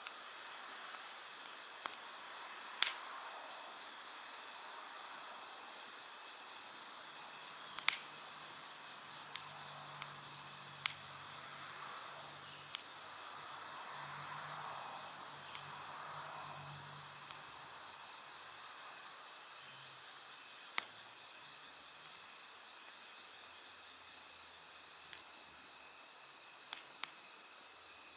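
Wood campfire crackling, with a handful of sharp pops, the loudest about eight seconds in. Under it, crickets and other insects keep up a steady high trill and a rhythmic chirping.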